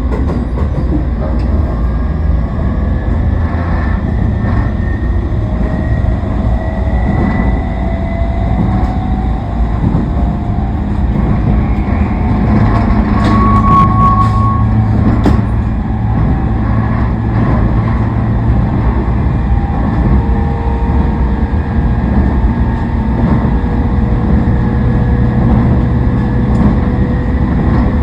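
Toei Shinjuku Line 10-300 series electric train running, wheels rumbling steadily on the rails with faint tones from its Mitsubishi IGBT-VVVF traction equipment, heard inside the carriage. A short, higher squeal comes about halfway through.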